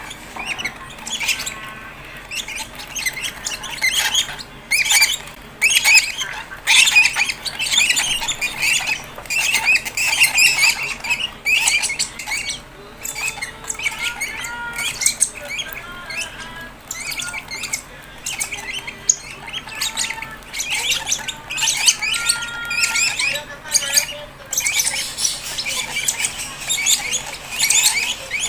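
Fischer's lovebird chicks squawking in rapid, harsh, continuous begging calls while being hand-fed.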